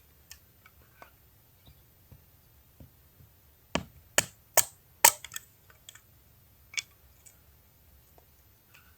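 Wood being split for kindling: a series of sharp chopping knocks, four strong strikes in quick succession about four seconds in, with lighter taps and clicks between.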